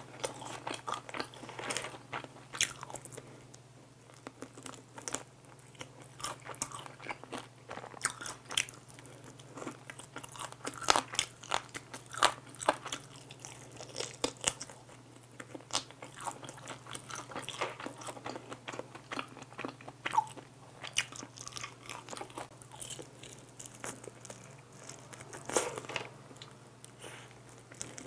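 Close-miked biting and chewing of glazed fried chicken wings: irregular crisp crunches and crackles of the fried coating, with wet chewing between bites.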